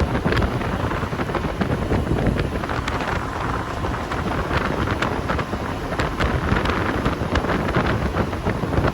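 Strong wind buffeting the microphone over the steady low rumble of a high-speed passenger ferry under way.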